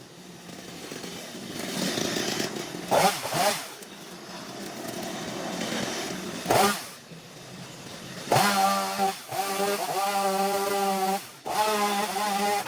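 Small petrol engine of a handheld yard power tool, revving up and falling back a few times. From about eight seconds in it holds high revs with a steady buzz, dips for a moment and picks up again, then drops off at the end.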